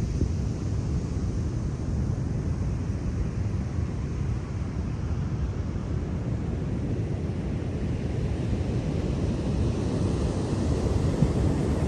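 Sea waves washing on the shore in a steady rush, with wind rumbling on the microphone.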